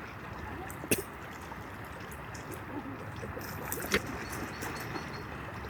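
River water running steadily, with two sharp clicks about three seconds apart.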